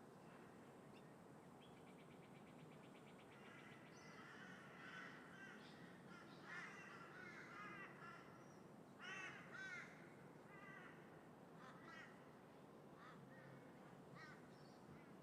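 Crows cawing repeatedly and faintly, several calls through the middle with the two loudest about nine seconds in, over a steady low background of wind and distant traffic.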